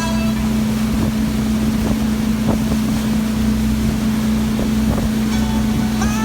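Motorboat engine running at a steady drone, with wind buffeting the microphone. Music comes in near the end.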